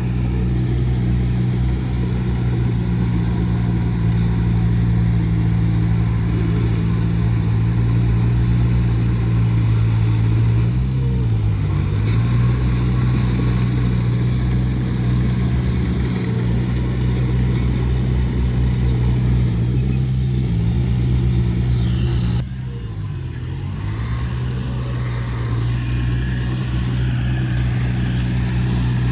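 Heavy diesel engine of an earthmoving machine running steadily. Its pitch dips briefly twice, first about a third of the way in and again about three quarters through, as if pulled down under load, then recovers. The level drops abruptly just after the second dip.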